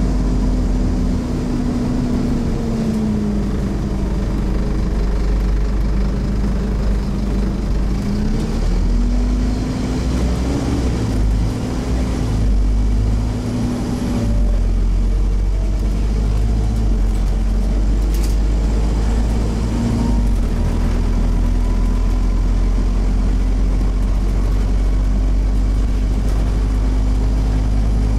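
Diesel engine of a Scania CN270UB OmniCity single-deck bus running on the road. Its pitch falls and rises a few times early on as the bus changes gear and speed, then holds steady through the second half.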